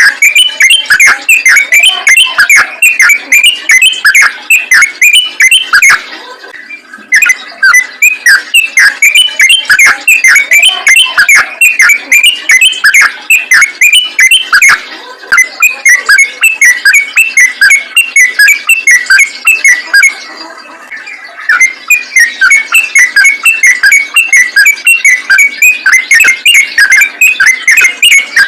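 Yellow-vented bulbul singing in a fast, continuous chattering run of short notes, several a second, with two brief pauses.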